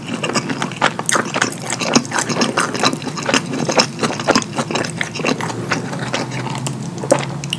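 Close-miked open-mouth chewing and lip smacking of pizza covered in cheese sauce: a dense, uneven run of wet, sticky clicks.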